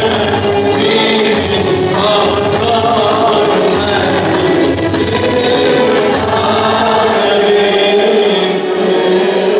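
Voices singing an Arabic Christian hymn in chant style, with a steady percussion beat that drops out about two thirds of the way through.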